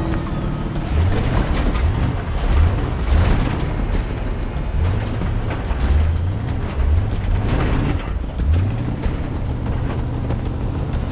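Car engine revving up again and again as the vehicle drives over rough ground. Its pitch rises about once a second, under knocks and rattles from the bouncing body.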